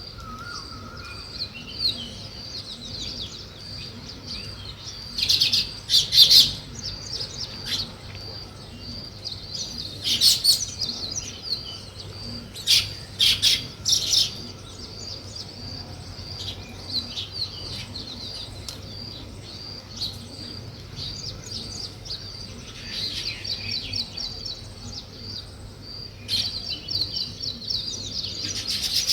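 Weaver birds chirping: a steady string of short, high chirps, broken every few seconds by louder bursts of rapid chattering.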